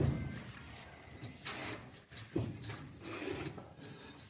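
Bricks being unloaded at night: a heavy thud right at the start and another about two and a half seconds in, with scraping and clattering between.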